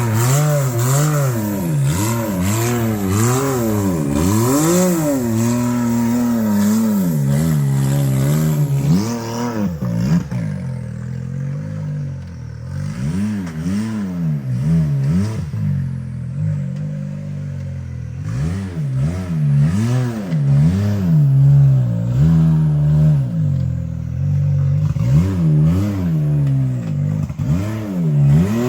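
Side-by-side UTV engine revving up and falling back over and over while it crawls up a rocky ledge. The engine runs more quietly for several seconds in the middle of the climb.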